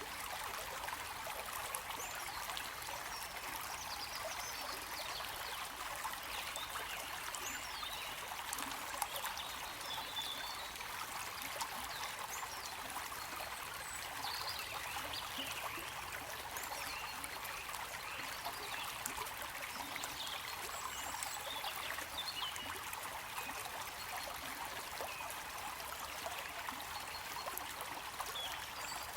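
Running water flowing steadily, a constant even rush dotted with many small quick splashes and bubbles.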